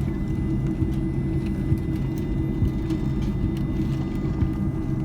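Cabin noise of an Airbus A310-304 on the ground with its GE CF6-80C2 engines running before takeoff: a steady low rumble with a thin, steady high whine above it.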